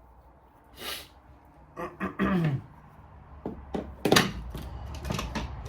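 Several sharp metal clunks and knocks as the clutch-side outer case of a Suzuki LTR 450 engine is worked loose and pulled off. The loudest knocks come about four seconds in and near the end.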